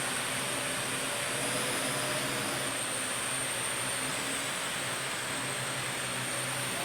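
Parrot AR.Drone 2.0 quadcopter hovering, its four propellers giving a steady buzzing hum with a high motor whine that shifts in pitch a couple of times as the motors change speed.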